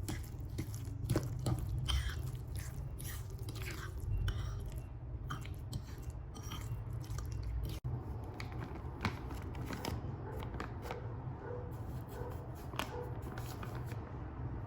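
A person chewing crunchy food, with irregular crunching and clicking strokes; the sound briefly drops out about eight seconds in.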